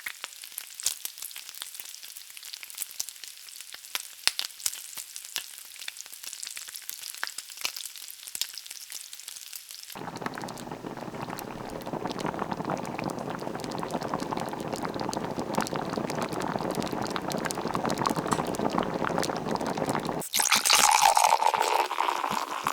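Food frying in a pan, a crackling sizzle with many small pops. About ten seconds in it gives way to a steady rush of liquid, and near the end a louder pour whose pitch rises as a glass fills.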